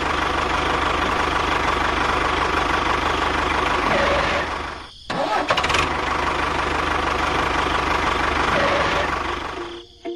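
Engine of a homemade mini tractor running steadily with an even beat. It drops out briefly about five seconds in, picks up again, and dies away near the end.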